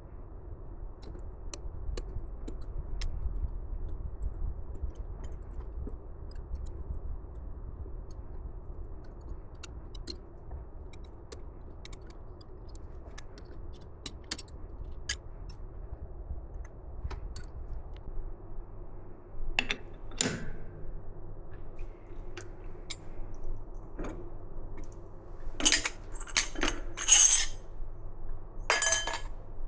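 Metal tools and parts clinking and tapping against each other over a steady low hum, with a few louder clinks near the end.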